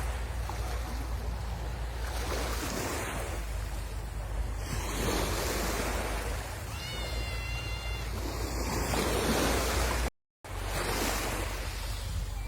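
Sea waves breaking and washing up the shore in slow surges, with wind rumbling on the microphone. A brief high whistling tone sounds about seven seconds in, and the sound drops out for a moment about ten seconds in.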